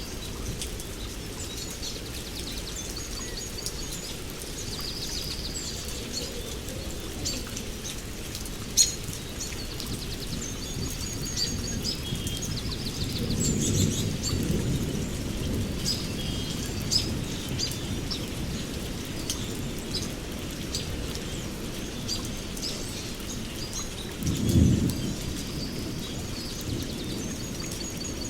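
Small songbirds chirping and singing in many short, high calls over a steady low background noise. Two low rumbles are heard: a longer one about halfway through and a shorter, louder one near the end.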